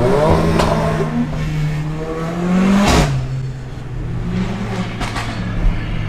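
Car engine accelerating hard: its pitch climbs for about three seconds, drops abruptly at an upshift with a loud sharp crack, then climbs again. Fainter sharp cracks come about half a second in and near the five-second mark.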